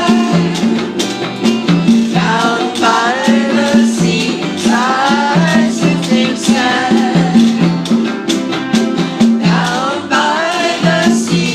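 Live band music: a voice singing phrases over a repeating bass line and strummed strings, with congas and a washboard scraped in a steady rhythm.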